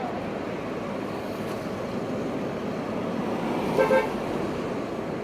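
Steady street traffic noise, with a car horn giving two short toots in quick succession about four seconds in.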